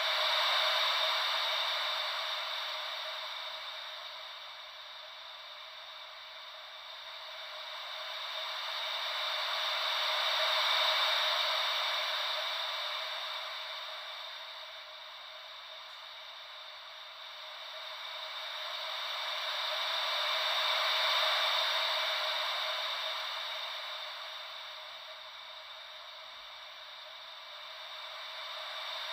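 Steady white-noise hiss, thin and with no low rumble, that swells and fades about every ten seconds in imitation of slow ocean waves.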